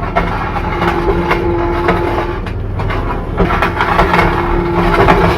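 Skid steer engine running under load, with a homemade shovel attachment on its front clanking and scraping as it digs out from under a wall. A steady whine comes and goes twice over the engine.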